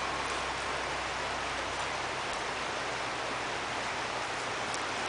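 A river flowing, a steady rushing of water. A faint low hum fades out about two seconds in.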